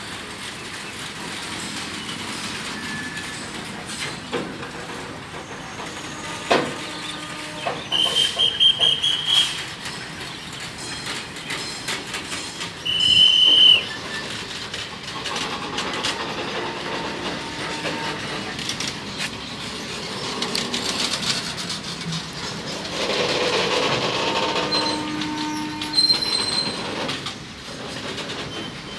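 RORO freight train's wagons rolling out of the yard, wheels clattering steadily over the rails. Two short high-pitched squeals come about eight and thirteen seconds in.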